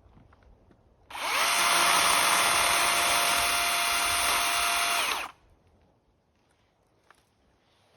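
An electric power tool's motor spins up about a second in, runs steadily for about four seconds and then winds down.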